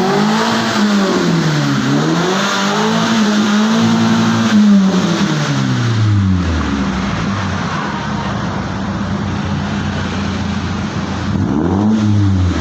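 Mitsubishi Lancer engine running through an aftermarket racing exhaust with header and muffler, revved up and let fall back twice, then settling to a steady low idle about seven seconds in and revved once more near the end.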